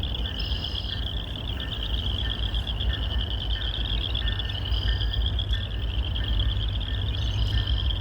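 A steady, rapidly pulsing high-pitched trill from a chorus of calling animals, with a few short bird calls over it and a low steady rumble underneath.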